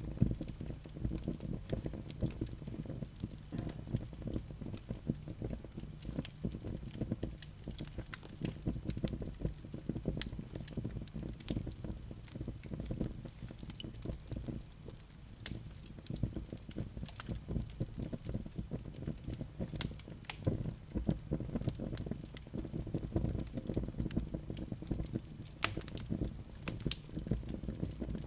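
Wood fire crackling: many irregular sharp pops and snaps over a soft low rumble of flames.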